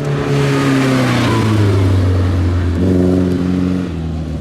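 Classic rally car's engine passing close at speed: its note falls over the first few seconds, then picks up again briefly about three seconds in before dropping away.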